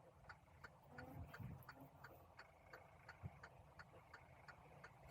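Near silence with a faint, regular ticking, about three ticks a second, typical of a truck's turn-signal or hazard flasher clicking in the cab.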